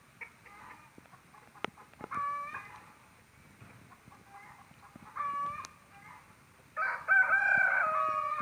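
Rooster crowing: short calls about two and five seconds in, then a long, loud crow near the end.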